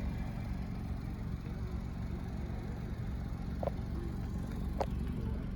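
2017 Nissan Rogue SV's 2.5 L four-cylinder engine idling as a steady low hum, with two light clicks a little after halfway.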